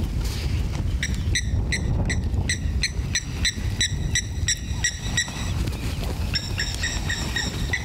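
A bird repeating a short, clear note about three or four times a second, in two runs, the second starting about six seconds in, over a steady low rumble.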